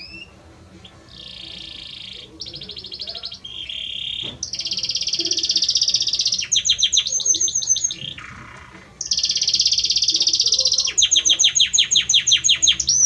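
Belgian canary (domestic canary) singing: a continuous song of high rolling trills and runs of quick falling notes, changing phrase every second or two. It grows louder about four seconds in and dips briefly past the middle.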